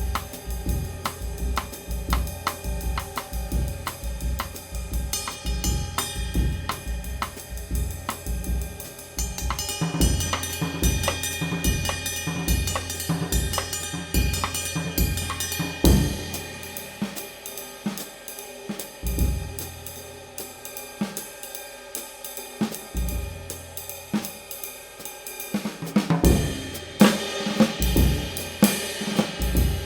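Drum kit played in a groove featuring a handmade 19-inch B20 bronze medium ride cymbal, with bass drum, snare and hi-hat. The kick drum drops out to a few hits for a stretch in the middle, and the cymbal playing gets busier again near the end.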